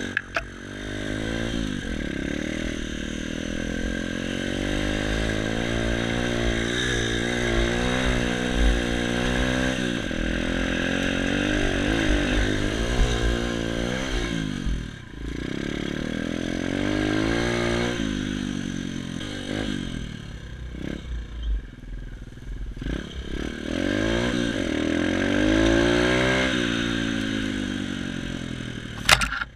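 Xmotos XB33 140cc pit bike's single-cylinder four-stroke engine being ridden hard on a trail, its pitch rising and falling again and again with the throttle and gear changes, with some rattling. A sharp click near the end.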